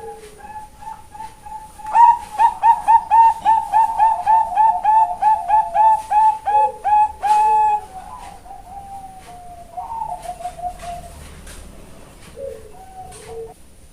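Female Bangkok-type zebra dove singing. About two seconds in comes a loud run of short, clipped cooing notes, roughly three a second, ending in one longer held note; softer, quicker notes and a few quiet low coos follow.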